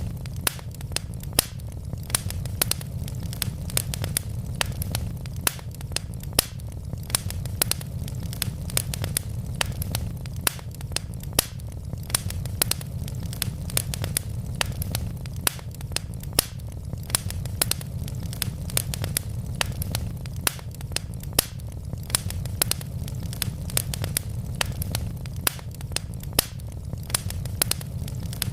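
Wood logs burning in a fireplace: a steady low rumble of the flames with many sharp, irregular crackles and pops, several a second.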